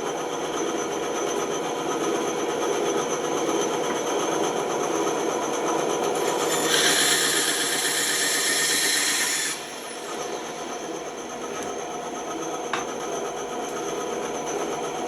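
Bandsaw running steadily. From about seven seconds in, a louder, brighter cutting sound runs for about two and a half seconds as the blade goes through wood, then stops abruptly, leaving the saw running on.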